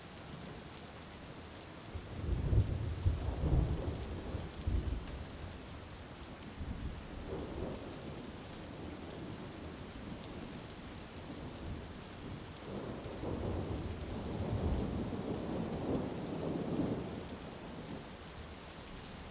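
Steady heavy rain with thunder. A loud clap breaks about two seconds in and rumbles for a few seconds, a weaker rumble follows near eight seconds, and a long roll of thunder runs from about twelve to seventeen seconds.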